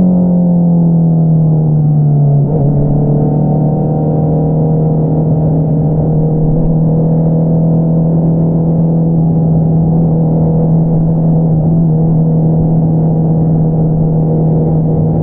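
2022 Honda CBR650R's inline-four running through an Akrapovič single-outlet exhaust. The engine note falls gently for the first couple of seconds, shifts abruptly about two and a half seconds in, then holds a steady cruising note.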